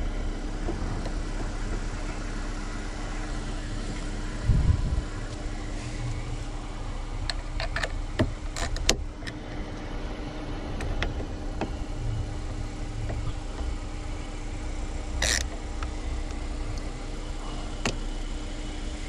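A Jeep Wrangler engine idling with a steady hum, while hand work on the steering column shroud makes scattered clicks and a couple of louder knocks, about a quarter of the way in and again about three quarters of the way in, as a screw is put back in place.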